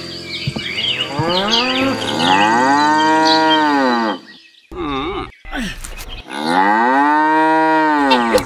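Cow mooing twice, two long calls that each rise and then fall in pitch, the first about two seconds in and the second near the end. Birds chirp during the first second or so.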